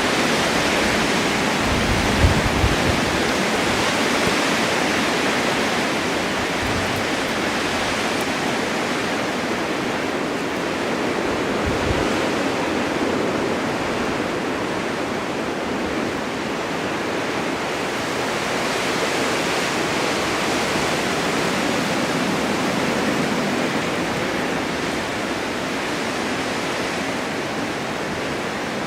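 Blizzard wind driving snow across winter mountains: a steady rushing noise that swells and eases slightly, with a few brief low thumps about two seconds in and again about twelve seconds in.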